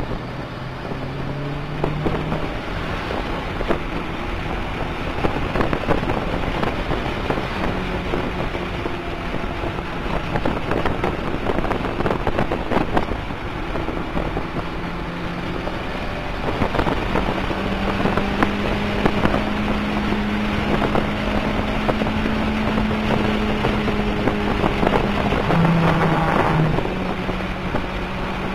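Toyota MR2 Turbo's turbocharged 2.0-litre four-cylinder engine, heard from inside the cabin as the car is driven hard. Its pitch climbs early on, rises and falls through the middle, then holds high for the last ten seconds with a brief dip near the end. Steady wind and road noise run underneath.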